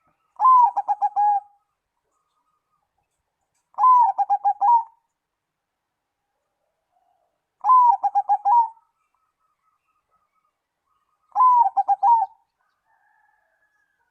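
Zebra dove (perkutut) singing: four cooing phrases, one about every four seconds. Each opens on a higher note, followed by a quick run of four or five lower coos.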